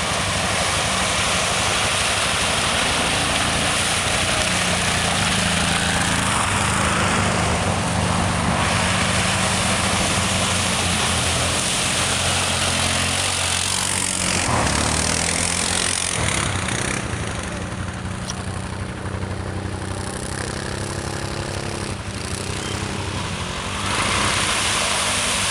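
ATV engines running steadily, dropping off a little about two-thirds of the way through and picking up again near the end.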